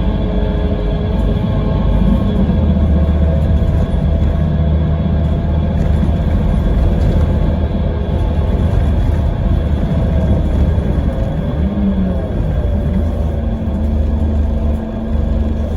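Scania K320IB coach's five-cylinder diesel engine and ZF Ecomat automatic gearbox running steadily under way: a constant low drone with a whine that bends a little in pitch in the last few seconds.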